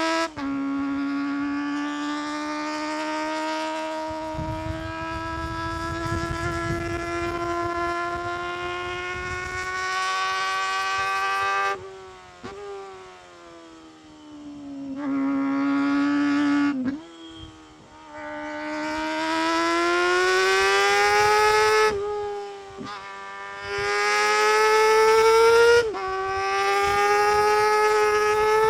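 Honda CBR250RR MC22's 250 cc inline-four running at very high revs under full throttle, its high-pitched note climbing steadily. Several times the throttle is closed for a moment and the note drops sharply, then climbs again as the bike pulls back up through the revs.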